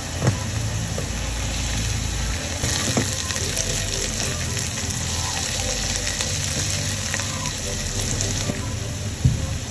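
Chopped onion, garlic and cilantro sizzling steadily in oil in a nonstick wok while being stirred with a silicone spatula, with a few knocks along the way.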